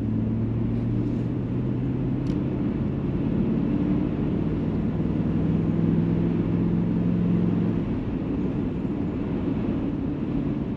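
Steady engine drone and road noise from a pickup truck carrying a camper while driving along a highway, its engine hum shifting slightly in pitch.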